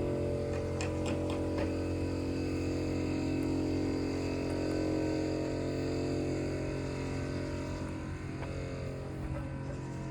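A steady motor hum holding one pitch, fading away over the last couple of seconds, with a few light clicks in the first two seconds.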